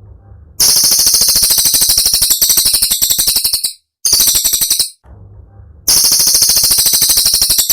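Cililin songbird singing rapid, high-pitched rattling trills: fast strings of sharp repeated notes in bursts of up to about three seconds, with short pauses between them.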